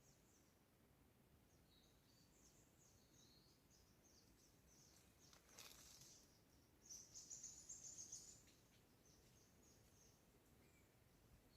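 Faint wild birdsong: scattered high chirps, then a quick run of rapid high notes about seven seconds in. There is a single soft click or rustle just before it.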